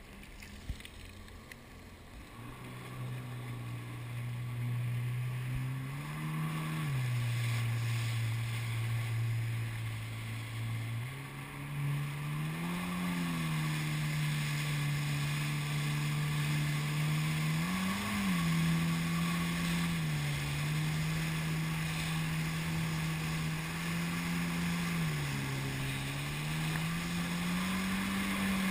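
Jet ski engine running at a steady throttle, its pitch lifting briefly and falling back several times and settling higher near the end.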